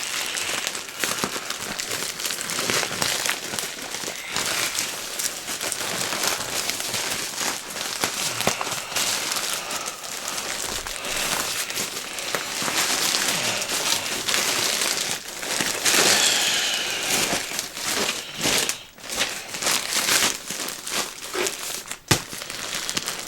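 Plastic shipping bag being handled and crinkled, with sharp crackles and rustles throughout as it is opened.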